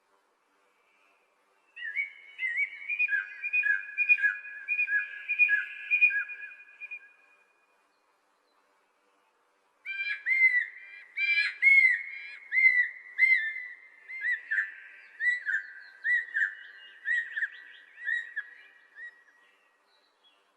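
Songbird whistling a quick series of repeated, curving notes in two bouts: the first begins about two seconds in and lasts some five seconds, and the second begins about ten seconds in and runs nearly ten seconds.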